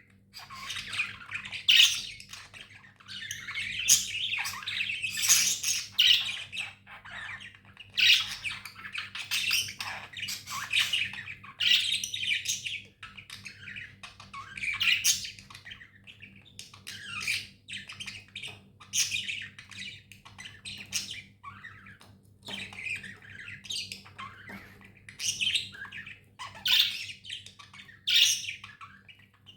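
Budgerigars chirping and squawking in a busy, continuous chatter of short high calls.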